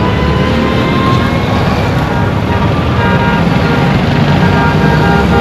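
Dense road traffic with a steady engine rumble and tyre noise. About halfway through, a faint pitched tone joins in.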